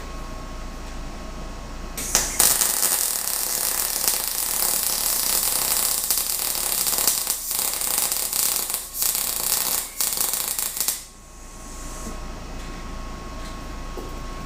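Electric arc welding: the arc crackles in one long bead of about nine seconds, starting about two seconds in, with a few brief breaks, then stops.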